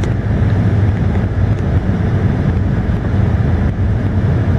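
Car engine idling: a steady low rumble heard from inside the cabin, with a light click right at the start.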